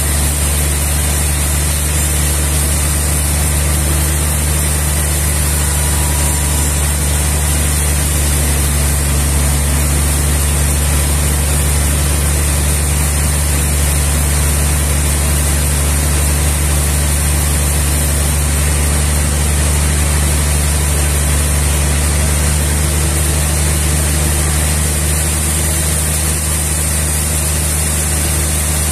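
Sawmill machinery running steadily, a constant low engine hum with a steady high hiss over it, unchanged throughout.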